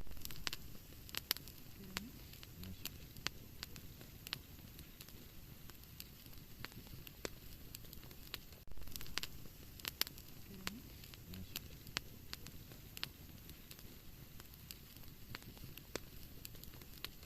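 Wood fire in a fireplace crackling, with irregular sharp pops over a steady low hiss. About halfway through, the sound drops out for an instant and comes back slightly louder.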